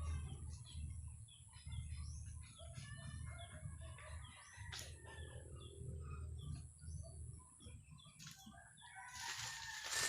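Chickens clucking in a string of short calls, with a rooster crowing near the end; a low rumble runs underneath.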